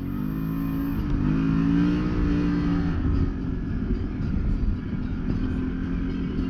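Can-Am Maverick Sport X mr side-by-side engine revving up under throttle, holding high revs for about two seconds, then easing off about three seconds in and running on at lower revs over a low rumble of driving noise.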